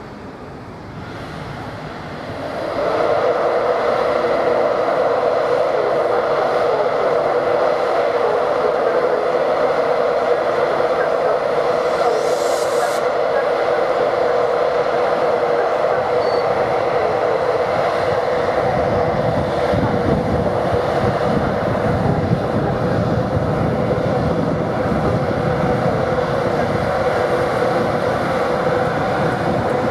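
A train running past on the main line, rising quickly about two to three seconds in and then staying loud and steady, with a strong hum. A brief high hiss is heard about halfway through.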